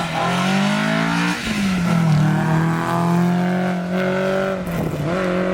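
Rally car engine accelerating hard on a gravel special stage, its note climbing and then dropping at an upshift about a second and a half in, climbing again and shifting once more near the end.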